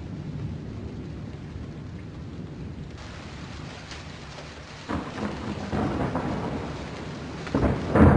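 Thunderstorm: low rumbling thunder over steady rain, with a sudden thunderclap about five seconds in and a louder one near the end.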